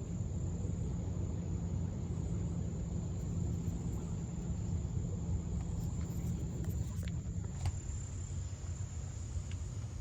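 Steady outdoor ambience: a constant high, thin drone of insects over a steady low rumble.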